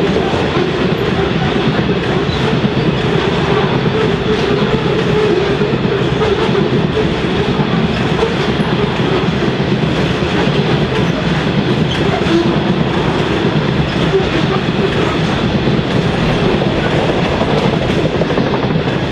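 Coal train wagons rolling past with a steady, loud rumble of steel wheels on the rails, with faint clicks over the rail joints.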